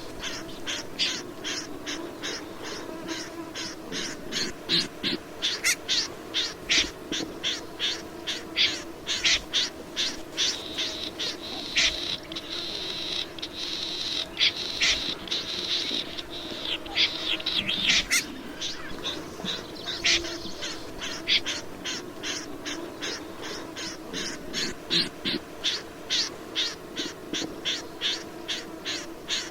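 Rẽ run bird calling: a long run of short, sharp high notes at about three a second, which quicken into a denser trill partway through, over a steady low hum.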